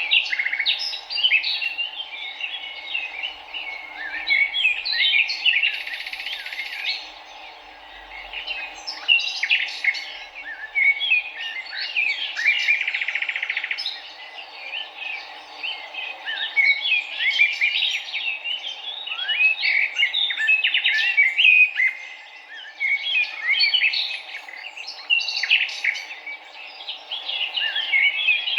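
Several small songbirds chirping and twittering in a dense, continuous chorus of quick, high notes, over a steady low rush.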